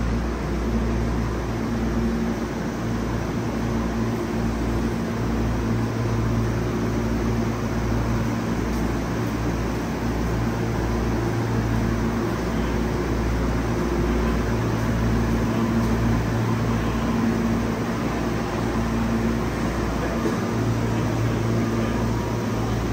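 Steady low mechanical hum of an electric commuter train's equipment, with a few faint steady tones that come and go.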